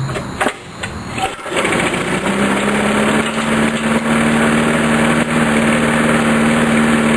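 Briggs & Stratton lawn mower engine starting through a scooter muffler: a few uneven clicks and coughs, then it catches about a second and a half in and settles into a steady run.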